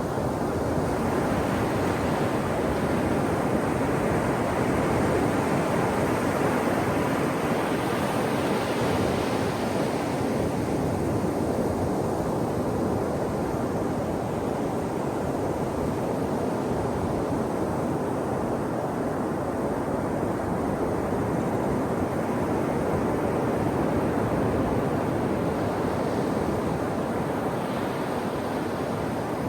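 Ocean surf breaking on a shore: a continuous wash of noise that swells and eases as waves come in, rising twice, about a third of the way in and near the end.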